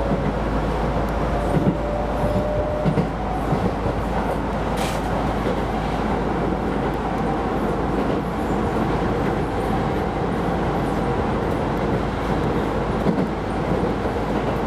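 Keisei Line rapid electric train running along the track, heard from inside the car: a steady rumble of wheels on rail with a few low knocks, and a faint motor whine that fades out in the first few seconds. A brief hiss about five seconds in.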